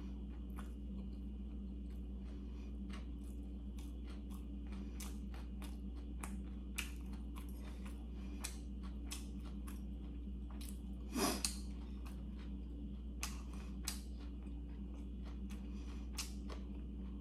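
Chewing a mouthful of gimbap (seaweed-wrapped rice rolls): scattered soft, wet mouth clicks over a steady low hum, with one louder brief sound about eleven seconds in.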